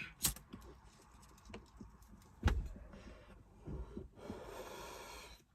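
A few sharp clicks, then a steady breathy hiss lasting over a second near the end: a long draw on a cannabis hand pipe packed with unground weed, shortly before a cough.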